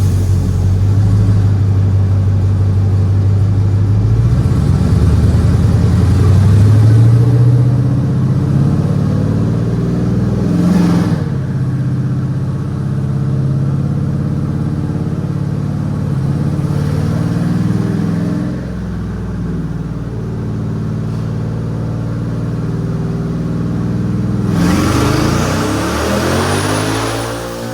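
GMC Sierra's 5.3-litre V8 on headers running and revving, its engine note rising and falling. A short rush of noise comes about eleven seconds in, and a longer one with a high whistle comes near the end.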